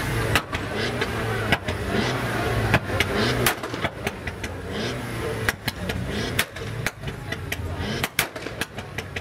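Car engine idling steadily, with sharp cracks at irregular intervals.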